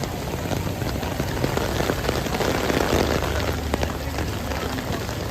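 Heavy water noise: a dense, steady rush with many small pattering splashes over a low rumble, swelling slightly about halfway through.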